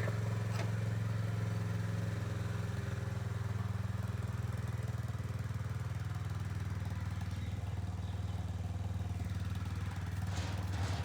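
Honda H'ness CB350's single-cylinder engine running steadily on its stock exhaust, with an even low note.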